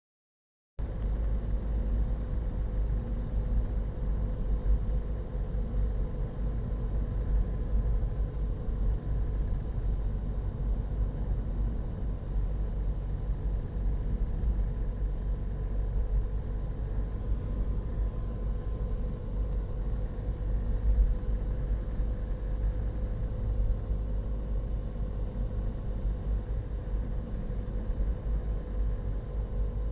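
Steady low rumble inside the cabin of a Renault Mégane II, with a faint steady hum running through it; no separate rattle or click stands out.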